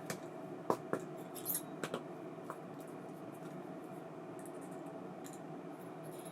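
Several small sharp clicks and taps from handling the parts of an ABU Ambassadeur 2500C baitcasting reel, all in the first two and a half seconds, then only a steady low hum.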